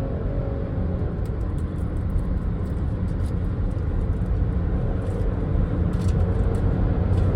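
Steady low rumble of a vehicle's engine and road noise while driving, growing a little louder toward the end.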